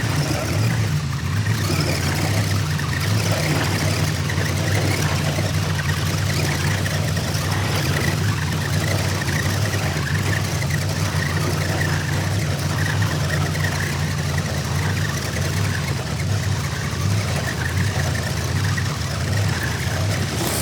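A large engine running steadily at idle, loud and unchanging.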